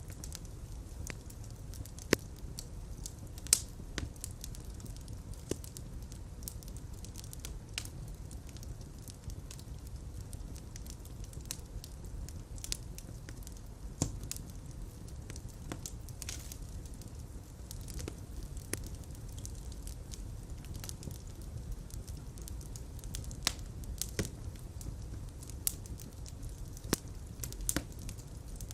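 Fire crackling in a fireplace: a steady low rumble of flames with irregular sharp snaps and pops, the loudest two about two and three and a half seconds in.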